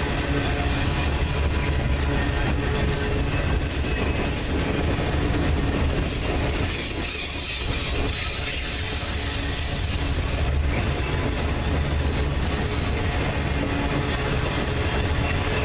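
Norfolk Southern freight train rolling past: a steady loud rumble of cars on the rails with wheel clatter, easing briefly about halfway through.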